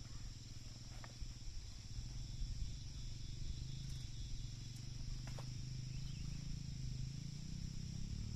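Insects (crickets or cicadas) chirping steadily, over a low rumbling hum that wavers slightly in pitch, with a few light knocks.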